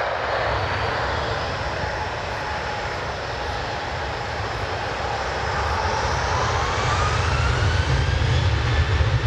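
Jet airliner engines running, a broad whooshing noise with a whine that rises in pitch over the last few seconds and a deep rumble that grows toward the end.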